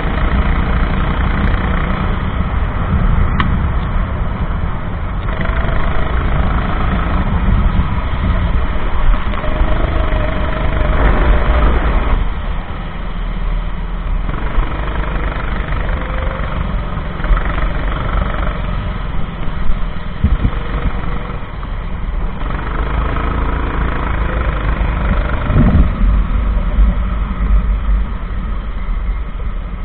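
Go-kart engine running at race pace, its pitch rising and falling every few seconds as the kart accelerates and lifts off through the corners.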